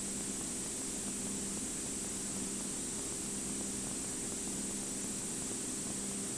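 Steady hiss over a low, even drone from a Cirrus single-engine piston airplane's engine and propeller in flight, heard through the cockpit intercom audio.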